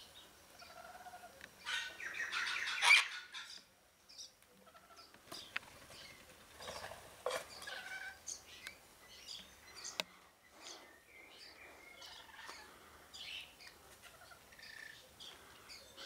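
Wild birds calling around a garden feeder: a loud, harsh screech at about two to three and a half seconds in, then scattered short chirps and calls.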